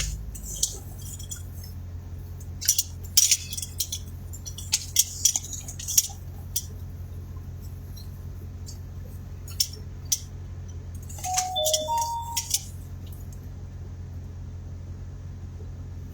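Scattered clicks and rattles of a camcorder and its gear being taken out and handled, over a steady low hum. About two-thirds of the way through comes a short run of three electronic beeps.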